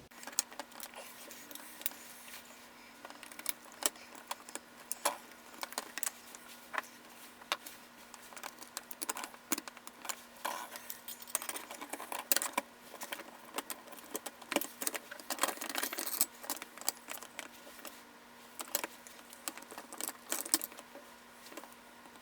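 Small plastic and metal parts of a Worker Seagull foam dart blaster clicking, rattling and knocking together as it is reassembled by hand, in irregular light clicks with a few busier clusters. A faint steady hum runs underneath.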